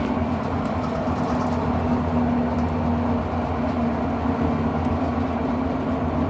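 Electrolux LM08 8 kg top-loading washing machine spinning a load: a steady motor hum with a low drone. The drum spins unbalanced because its suspension springs are broken.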